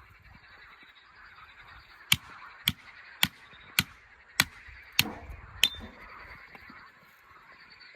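Seven sharp knocks, evenly spaced about one every half second, from something being struck repeatedly. Under them runs a steady faint background of animal calls.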